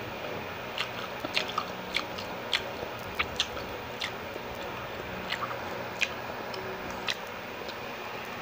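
Close-up chewing of steamed siomai dumplings: irregular wet mouth clicks and smacks, about a dozen over several seconds, over a low steady hum.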